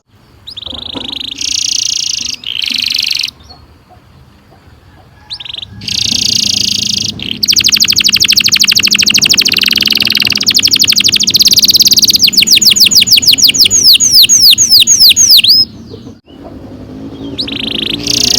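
Domestic canary singing: a few short chirped phrases, a pause, then a long rolling trill of rapid repeated notes that ends in a run of down-slurred whistles, with singing starting again near the end.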